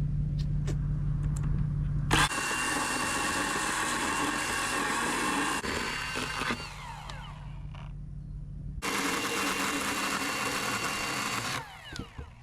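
Power saw cutting into a block of wood in two runs, about four seconds and then three seconds long. Each run starts suddenly with a high whine, and after each one the motor's pitch falls away as it spins down. A steady low hum comes first.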